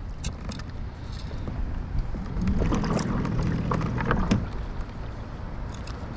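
Strong wind rumbling on the microphone as the kayak rides choppy water, with scattered sharp clicks and taps. A low hum rises for about two seconds in the middle.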